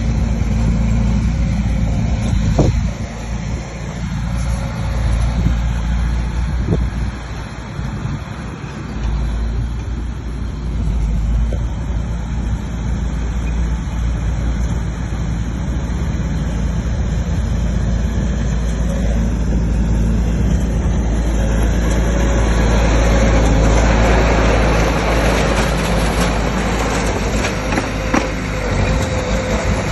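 Bulldozer's diesel engine running steadily, with a few clanks in the first several seconds; in the last third a rougher, louder rushing noise builds over the engine sound.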